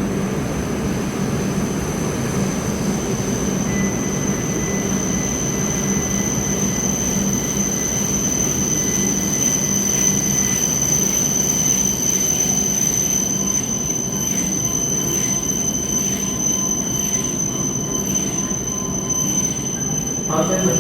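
Tohoku Shinkansen H5-series Hayabusa train running past the platform: a steady rumble of wheels and running gear with a thin, high whine held above it.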